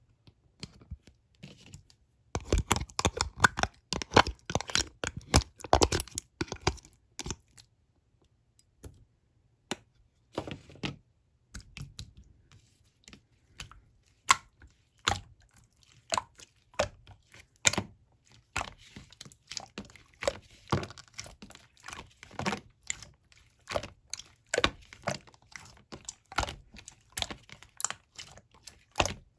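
Clear slime being pressed and worked in the buttonhole style, with trapped air pockets popping in quick runs of crisp clicks and crackles. The clicks start a couple of seconds in, thin out for a few seconds, then go on densely.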